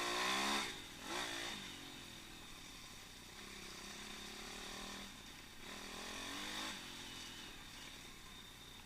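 Pit bike engine revving up and easing off as the bike is ridden, picked up by an onboard camera. It revs hard at the start, blips again about a second in, runs lower for a few seconds, then revs up once more for about a second and a half in the second half.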